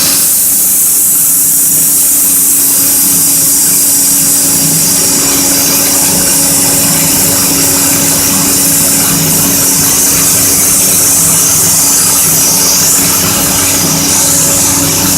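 Sanding machine running steadily, a constant motor hum under a loud, even hiss.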